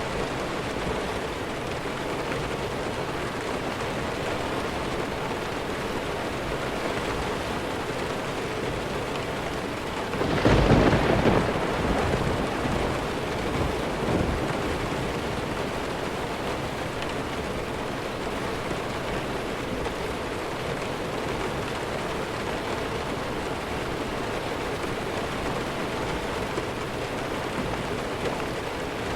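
Steady rainfall with a loud clap of thunder about ten seconds in that rumbles away over a couple of seconds, with a fainter rumble a few seconds later.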